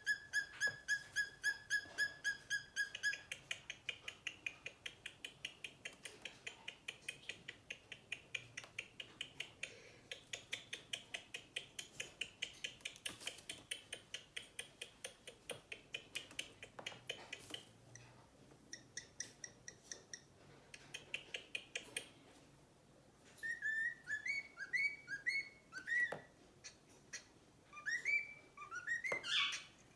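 Bird chirps and whistles: a long run of rapid, evenly repeated short notes, about four or five a second, gives way near the end to looser chirps that slide up and down in pitch.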